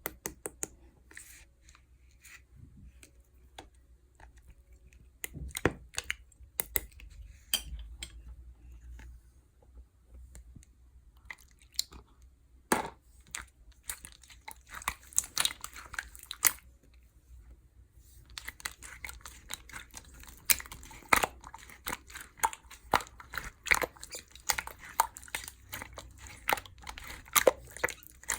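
Clear slime being pressed, stretched and squished by hand, making sticky clicks and pops. They come in scattered bursts at first and turn dense and rapid about two-thirds of the way in.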